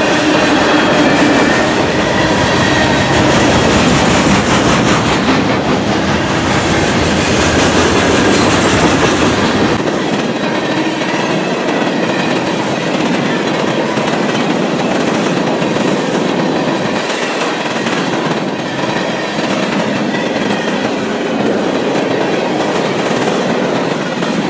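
Long freight train rolling past, with a steady clatter of wheels over the rails and a faint squeal. A heavy low rumble underneath eases off about ten seconds in.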